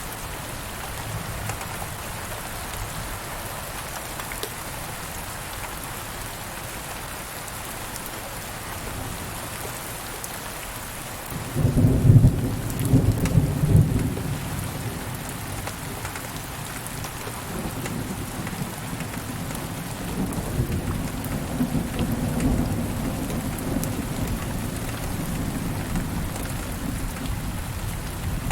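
Steady rain with a clap of thunder about halfway through that starts suddenly and rumbles for a couple of seconds, then a softer rolling rumble of thunder under the rain near the end.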